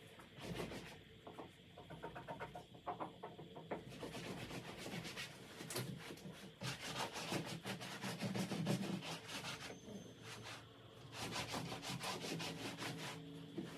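Cleaning cloth rubbing a surface in quick back-and-forth wiping strokes, in several runs.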